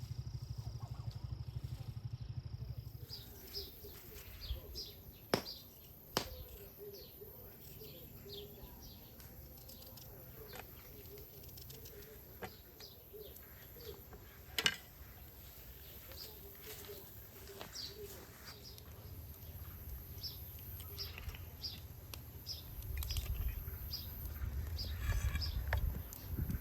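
Small birds chirping in short, repeated high calls, with a few sharp clicks in between and a low rumble at the start and again near the end.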